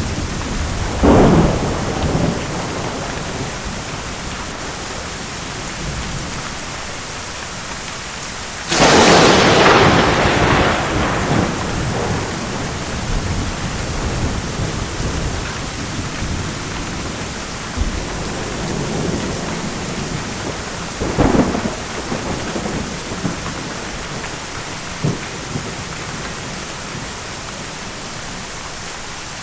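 Thunderstorm: steady heavy rain with thunder. A crack comes about a second in. The loudest, sharpest thunderclap comes about a third of the way through and rumbles away over a few seconds. A third clap follows about two-thirds of the way through.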